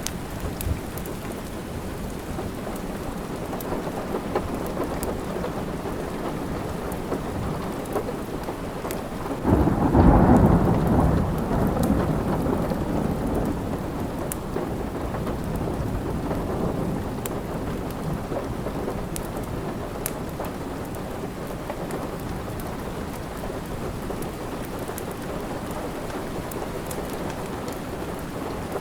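Steady rain falling, with a roll of thunder that swells suddenly about a third of the way in and rumbles away over several seconds. Faint scattered crackles from a fireplace sit under the rain.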